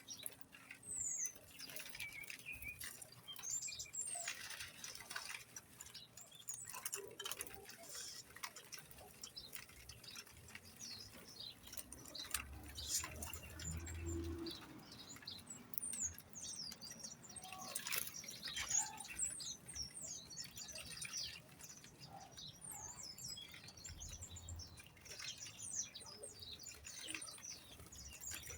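Small birds chirping with many short, high calls that fall in pitch, with light pattering and fluttering among them.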